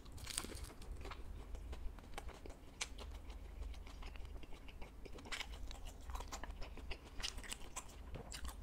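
A person chewing fried skewered snacks such as fried fish balls close to the microphone, with irregular small clicks of biting and chewing.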